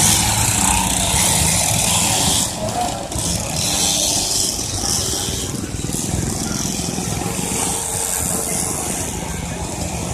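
Small motorbike engines running amid a busy crowd's voices, with a steady hiss that swells and fades.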